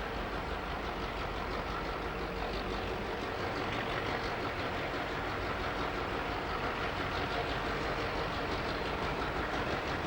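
Diesel-hauled freight train running by, a steady engine sound mixed with the rolling noise of wheels on the rails.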